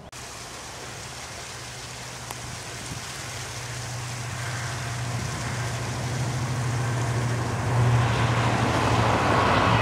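Diesel freight train approaching, still out of sight: the locomotive's steady engine hum and the rumble of the train grow louder throughout.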